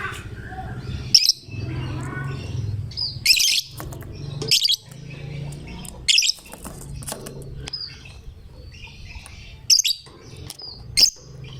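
Lovebird calling: a series of sharp, high-pitched chirps, about six loud ones spaced a second or two apart, with softer chatter between them, over a low steady hum.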